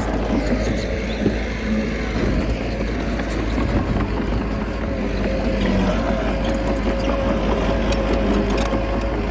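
Komatsu D21A bulldozer's diesel engine running steadily under work, with a steady whine over it and scattered light clatter.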